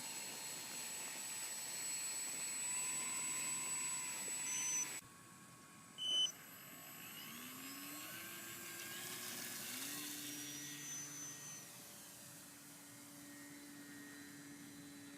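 Electric motor and propeller of a Multiplex FunCub RC plane whining, its pitch rising several times as the throttle is opened and then holding steady.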